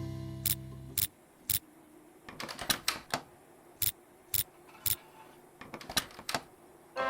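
Cartoon sound effects of a stuck chest being worked open: about a dozen short, sharp clicks and taps at irregular intervals. Background music fades out in the first second.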